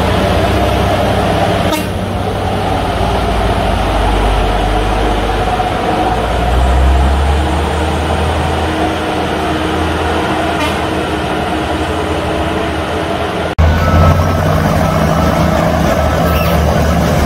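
Heavy truck engine running with a steady low drone. About thirteen and a half seconds in the sound cuts off abruptly, and a different low engine drone follows.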